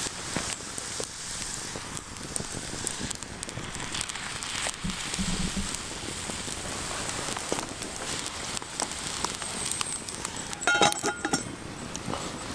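Wood campfire crackling with many small irregular pops. A brief, louder rattle with a slight ring comes near the end.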